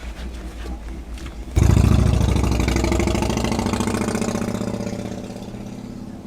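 A car engine running close by, coming in suddenly loud about one and a half seconds in and then fading away steadily, over a low rumble of other idling traffic.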